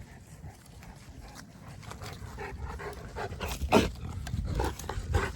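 Boerboel dog sounds over a constant low rumble, with a short sharp sound a little under four seconds in, the loudest moment.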